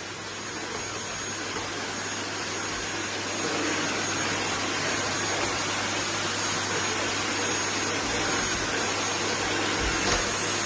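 Vacuum cleaner running steadily with a thin high whine, growing louder over the first few seconds; a brief knock near the end.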